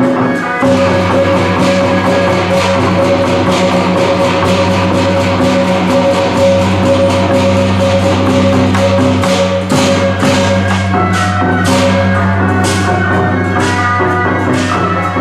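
Loud procession music: held pitched tones over percussion, with sharp metallic-sounding strikes about twice a second in the latter part.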